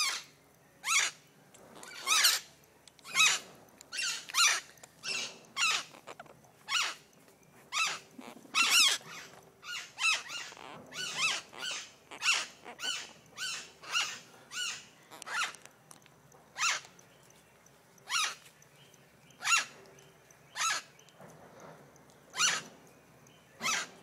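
Blue-naped parrots giving short, shrill calls over and over, about one a second, coming quicker and closer together in the middle stretch.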